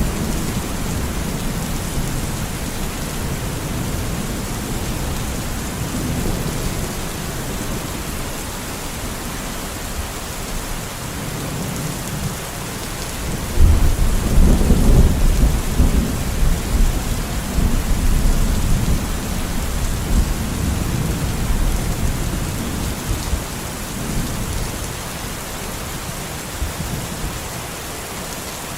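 Steady rain falling during a thunderstorm. About halfway through, a roll of thunder breaks in sharply, then rumbles low for several seconds before fading back under the rain.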